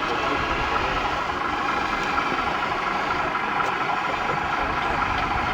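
Steady engine-like running with a continuous whine, holding the same pitch throughout.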